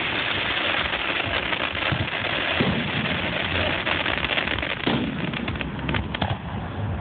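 Aerial fireworks going off in quick succession: a dense wash of bursts and crackling, with deeper booms about two and a half and five seconds in, and a run of sharp crackles near the end.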